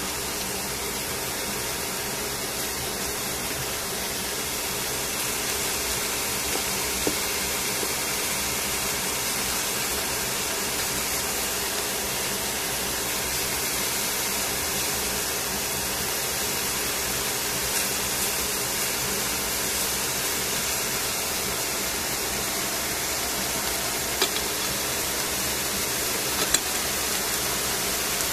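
Brown beech mushrooms sizzling in a hot stainless steel pan, a steady hiss, with a few light clicks of tongs against the pan.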